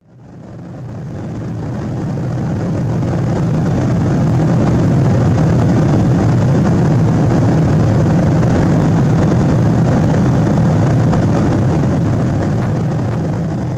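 Steady low rumble of cabin noise aboard a Boeing 777-200 in flight, engines and airflow, fading in over the first couple of seconds.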